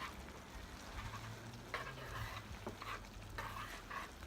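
Budae jjigae hotpot simmering with a faint steady sizzle, with short scrapes and clicks of utensils stirring in the pot every half second or so.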